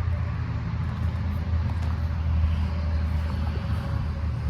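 A vehicle engine idling nearby: a steady low rumble with no change in pitch.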